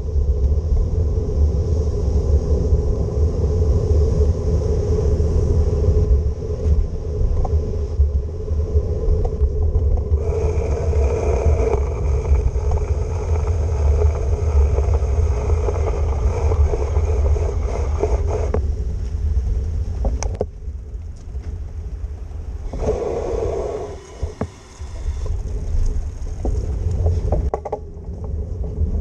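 Steady low rumble of a bicycle ride through city traffic in the rain, with wet-road hiss. From about ten to eighteen seconds in, a higher pitched hum from passing traffic joins, and the sound goes quieter and duller for a few seconds past the twenty-second mark.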